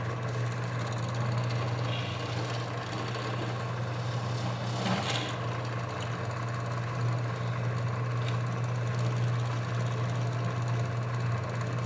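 Drill press motor running with a steady low hum, with one brief burst of noise about five seconds in.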